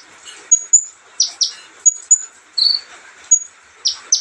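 A sunbird of the kind Indonesian bird-keepers call kolibri ninja, chirping. Short, high, thin pips alternate with pairs of sharp chips that sweep quickly downward, repeating every second or so.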